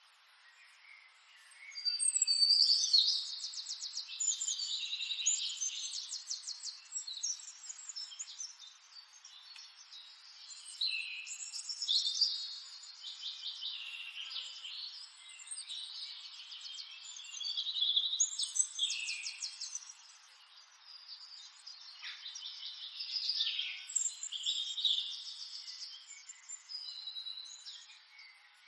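Birds singing: high, rapid chirping trills in repeated phrases every few seconds, starting about two seconds in, over a faint steady hiss.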